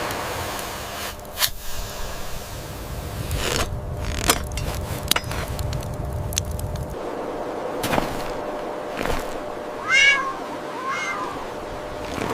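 A cat meowing twice near the end, short pitched calls, over a low rumble that stops partway through and a few scattered sharp clicks.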